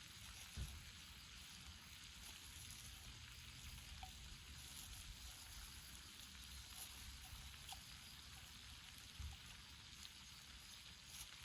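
Faint sizzle of meat on an iron griddle over a campfire, with a few small ticks. A low thump comes about half a second in and another near the end.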